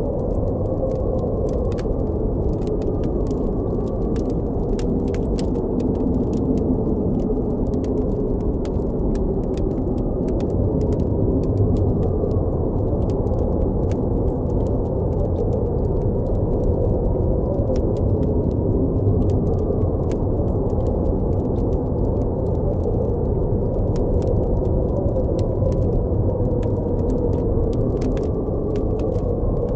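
Blizzard wind blowing steadily as a deep rushing noise, with a faint howl that slowly rises and falls in pitch, over scattered quick crackles and pops of a campfire.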